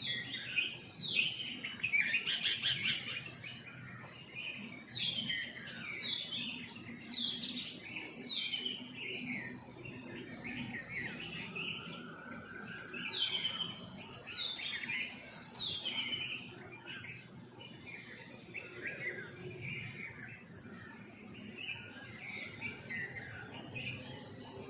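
Several birds chirping and calling over one another in quick overlapping twitters and trills, busiest in the first half and again in the middle, thinning out toward the end.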